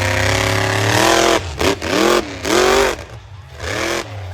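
Monster truck engine held at high revs, then blipped in several short bursts of throttle that each rise and fall.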